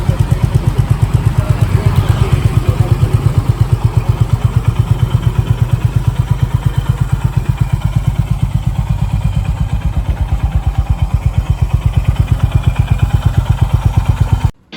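Honda H'ness CB350's 348 cc single-cylinder four-stroke engine idling, its exhaust giving even, steady thumps about eight a second. The sound cuts off suddenly near the end.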